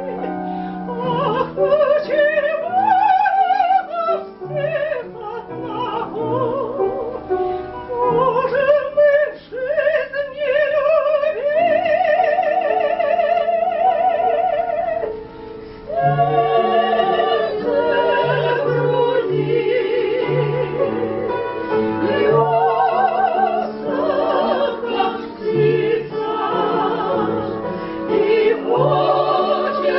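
Operatic-style singing, held notes with a wide vibrato, over a low instrumental accompaniment.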